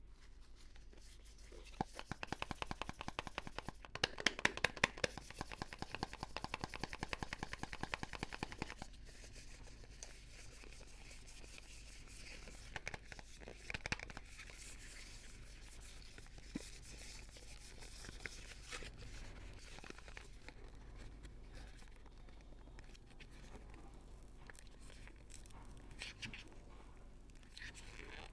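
Soap packaging being torn open and crinkled by hand as soap bars are unwrapped: a spell of dense, rapid crackling early on, then softer scattered rustles and clicks.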